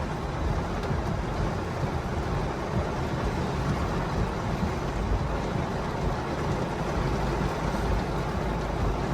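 Heavy rain pouring on a moving car, mixed with tyre and road noise on the wet road: a steady, dense hiss without a break.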